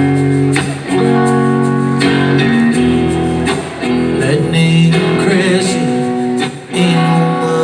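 Live rock band in concert playing a slow passage, with ringing guitar chords that change every second or so.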